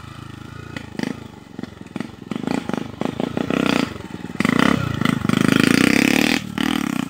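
Honda Titan motorcycle's single-cylinder four-stroke engine revving in uneven bursts and growing louder, then held at high revs for about two seconds before a brief drop and another rev, as the small road bike is ridden hard at a steep dirt bank.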